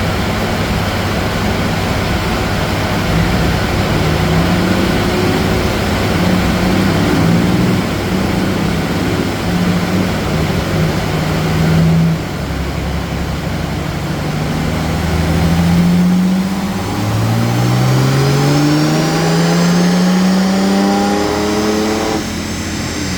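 BMW 530d's turbocharged straight-six diesel accelerating hard under full load after an ECU remap. Its pitch climbs, falls back about twelve seconds in, then climbs steadily again for some eight seconds before cutting off abruptly near the end as the throttle is released.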